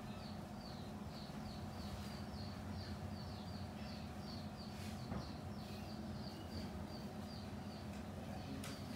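A small bird chirping over and over, about three short high chirps a second, over a low steady hum.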